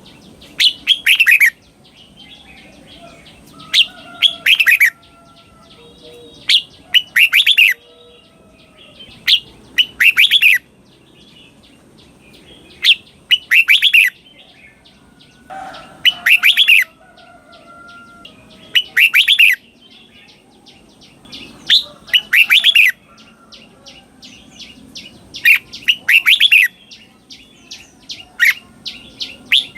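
Red-whiskered bulbul singing: its loud song phrase of quick, bright notes repeats about every three seconds, in the slow, doubled style that Thai keepers play to train caged birds, with softer chirps between the phrases.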